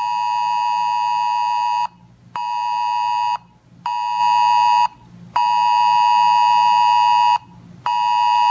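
Weather alert radio sounding its alarm for a High Wind Warning: a loud, high electronic tone beeping on and off, each beep about one to two seconds long with half-second gaps, signalling an incoming emergency weather message.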